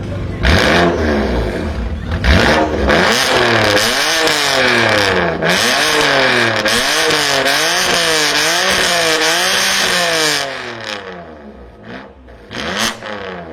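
A BMW performance car's engine revved hard again and again, its pitch climbing and falling about once a second, with sharp loud cracks in the first couple of seconds. Near the end it drops back and is blipped briefly a couple more times.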